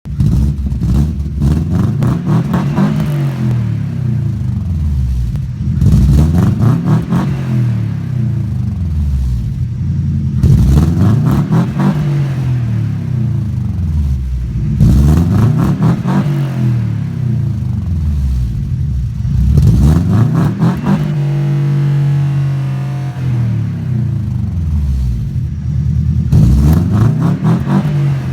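Car engine and exhaust tuned for a Subaru-style rumble, revved again and again, its pitch rising and falling every two seconds or so. About three quarters of the way through it settles to a steady idle for a few seconds, then revs once more near the end.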